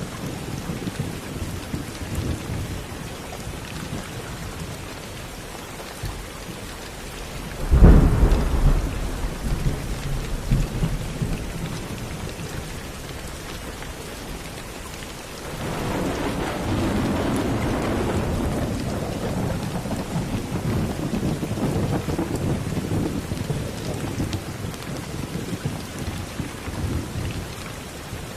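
Steady rain with thunder: a sudden sharp thunderclap about eight seconds in that rumbles away over a few seconds, then a longer rolling rumble from about fifteen seconds in.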